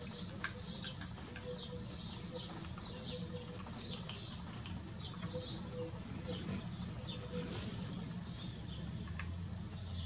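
Birds chirping: a steady chatter of quick, high chirps, several overlapping, over a low background rumble.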